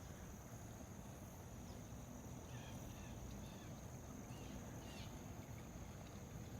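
Faint outdoor ambience: a steady high insect trill with a few faint, scattered chirps from the swarming birds, over a low background rumble.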